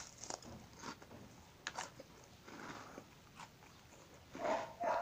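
Crunchy puffed cheese stick snacks being chewed with the mouth open: scattered crunches and wet mouth sounds, with a louder burst of chewing near the end.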